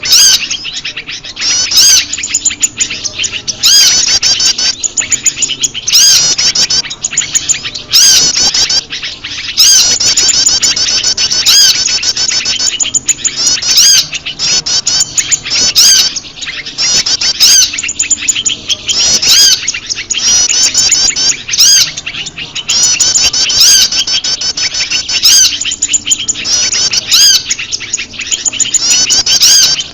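Loud, dense bird-lure recording of olive-backed tailorbirds (prenjak lumut) mixed with other small birds: fast, high-pitched chirping and twittering that never lets up, with a brief sharp click about every two seconds where the looped track repeats.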